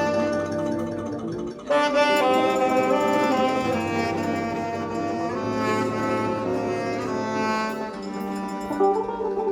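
Live band playing the instrumental introduction of a chanson, a melody of long held notes over a bass line, with a brief break about a second and a half in before the tune resumes.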